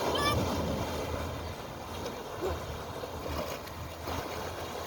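Steady rush and splash of water.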